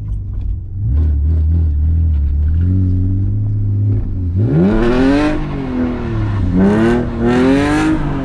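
BMW E46's engine idling steadily, then revved twice from about four seconds in, each rev rising and falling in pitch.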